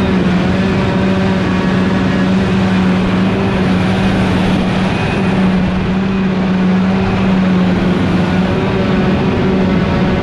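Heavy farm machinery running steadily during hay chopping: a loud, even drone with one constant low tone.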